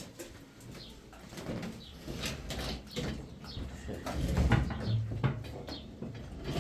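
A bird cooing, with scattered clicks and knocks. The loudest stretch comes a little after the middle.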